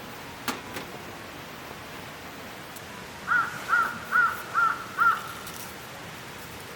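A crow cawing five times in quick succession, each caw short and arched in pitch, over a steady background hiss. Two short knocks come about half a second in.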